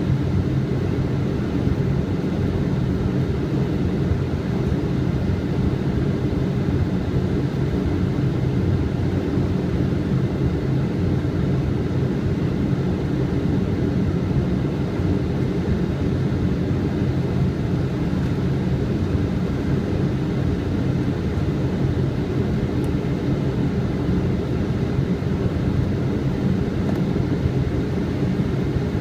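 Steady flight-deck noise of a Boeing 777 on final approach: airflow and engine drone heard inside the cockpit as an even, low hum with no breaks.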